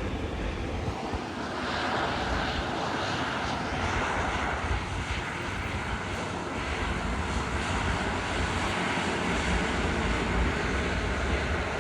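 Jet airliner engines, a steady broad noise that swells slightly and holds throughout.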